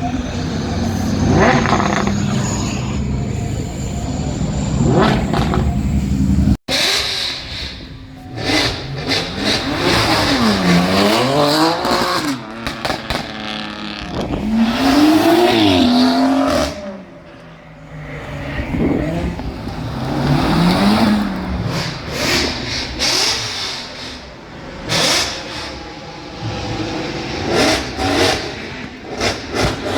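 Car engines revving: a steady low engine sound, then an abrupt cut about six and a half seconds in to an engine whose revs climb and fall again several times.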